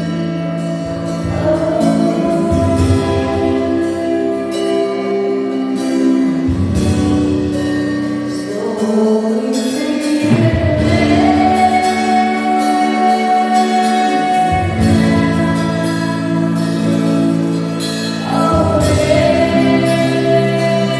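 Gospel worship music: the worship team singing long, held lines over instrumental accompaniment with a steady beat.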